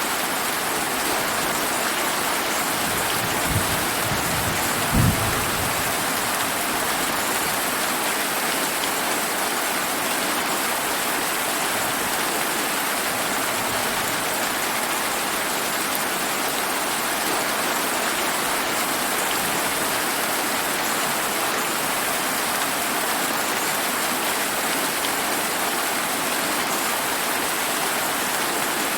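Steady heavy summer rain pattering down. A low thunder rumble rises about three seconds in, with two sharp claps near its peak.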